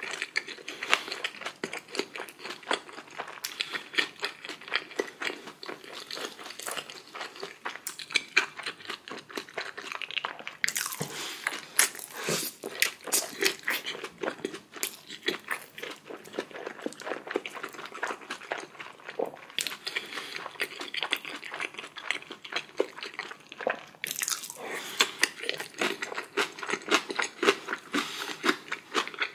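Close-miked eating sounds: steady chewing with crunchy bites, busier in a couple of stretches.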